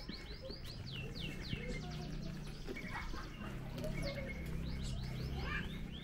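Small birds chirping: a rapid series of short, falling chirps, several a second, with a low steady hum underneath through the middle.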